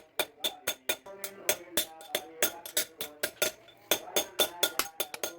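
Rapid hammer blows on steel at the anvil, about four a second, each with a short metallic ring, as the sickle blade is forged.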